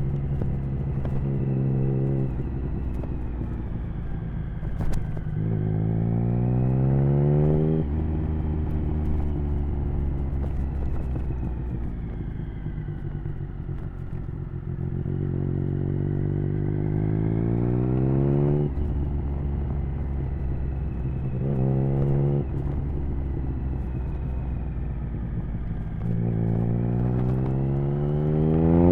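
Triumph Speed Triple 1050's inline three-cylinder engine through an HP Corse Hydroform exhaust with the dB killer fitted, under way. Its revs climb steeply several times and drop sharply between climbs, and it winds down slowly when the throttle is off.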